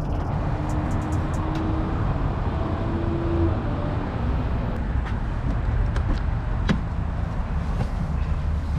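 Steady low rumble of a running car and road traffic, with one sharp click a little before the end.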